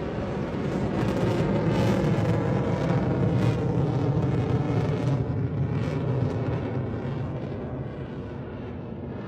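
Military jet flying past with a deep rumbling jet noise. It builds over the first two seconds, crackles at its loudest, then fades away about eight seconds in.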